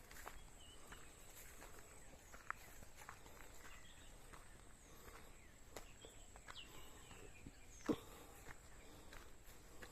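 Quiet forest ambience: faint, scattered bird chirps and occasional crackles of footsteps on the forest floor, with one sharper, louder snap about eight seconds in.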